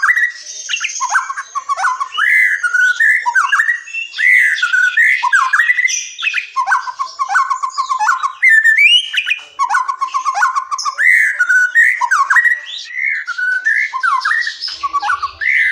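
White-rumped shama singing almost without pause: a rapid run of varied whistled phrases, with fast repeated notes and chattering trills in between.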